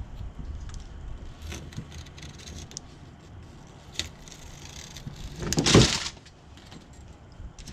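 Scattered light clicks and taps from work on the screen door, with one loud scraping rustle lasting about half a second a little past the middle, over a low rumble.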